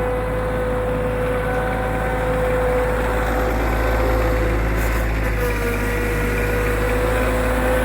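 Tractor engine running steadily, its pitch dipping slightly about five and a half seconds in.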